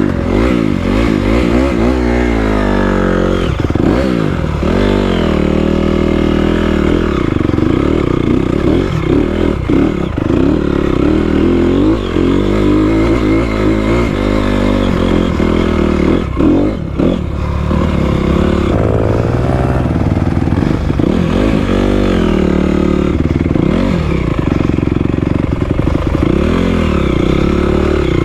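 Four-stroke dirt bike engine running and revving, its pitch rising and falling again and again as the throttle is worked, with a brief drop about two thirds of the way through.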